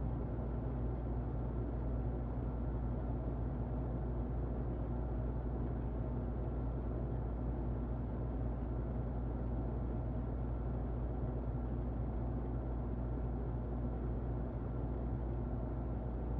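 Muffled electric fan running steadily, used as white noise: an even, low rushing noise with a faint steady hum on top.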